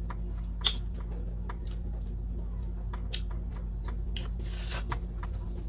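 Close-up mukbang eating sounds of boiled sweet potato: soft chewing and small mouth clicks, with a sharper click just under a second in and a short breathy hiss about four and a half seconds in, over a steady low hum.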